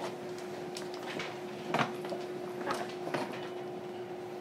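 JR Kyushu 305 series commuter train standing at a station with its doors open, heard from inside the car: a steady hum, with a few short knocks and clacks, the loudest a little under two seconds in.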